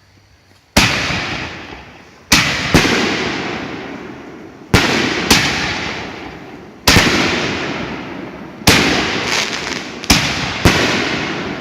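Empire Fireworks Inferno canister artillery shells (1.4G reloadables) firing one after another: about nine sharp bangs, some in quick pairs, each trailing off in a long decaying rumble.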